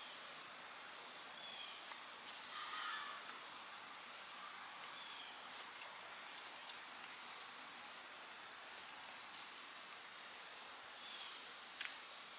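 Insects, typical of crickets, trilling steadily: a high, rapidly pulsing chirr that keeps on without a break.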